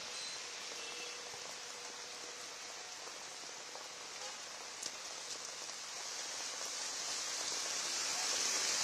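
Rain falling in a steady hiss, with one brief tap about five seconds in; it grows louder near the end.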